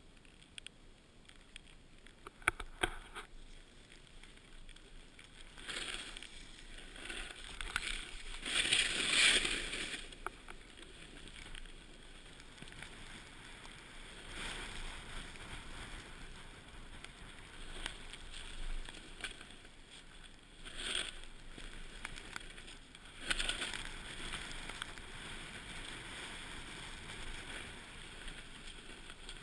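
Water splashing and sloshing in irregular surges, loudest about nine seconds in, with a few sharp knocks early on.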